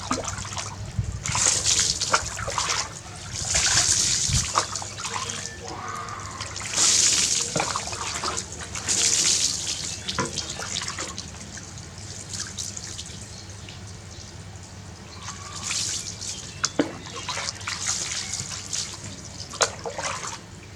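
Water splashing in short bursts every couple of seconds as a baby monkey is bathed, with a few small knocks between.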